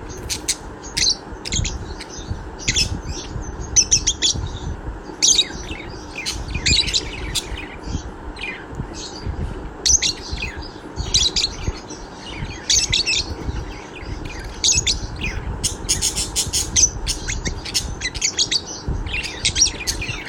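A budgie chirping and warbling in quick runs of short, high notes with brief pauses between them, over a steady low hum.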